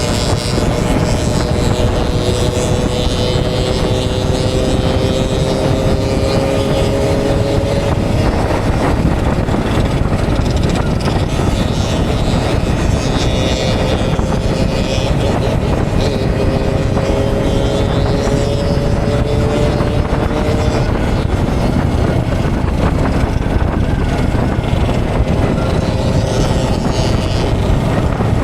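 Motorcycle being ridden at speed, with heavy wind rush on the microphone over the engine. The engine note climbs slowly twice, once in the first third and again around the middle, as the bike gains speed.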